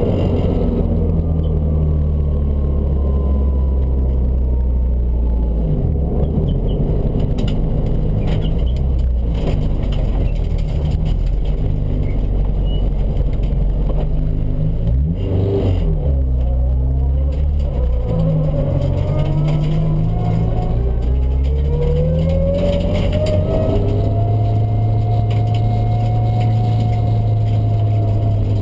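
Honda Civic VTi's 1.6-litre B16 VTEC four-cylinder engine driven hard, its pitch climbing through the revs and dropping sharply at several gear changes, then held at high revs near the end.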